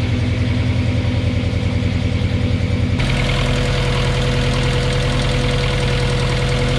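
Subaru Impreza's flat-four boxer engine idling steadily while its cooling system is topped up and bled of air. About three seconds in the sound jumps to a closer, smoother drone with a thin steady whine.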